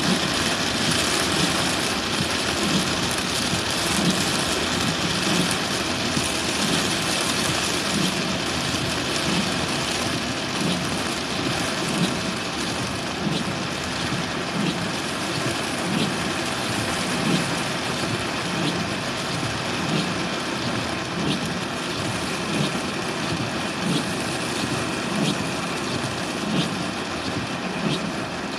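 Heavy rain on a moving car: a steady rushing noise over the running engine. A soft regular beat comes about every second and a half.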